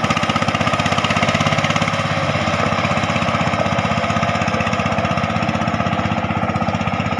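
Single-cylinder diesel engine of a koyun two-wheel tractor running steadily with a fast, even chugging.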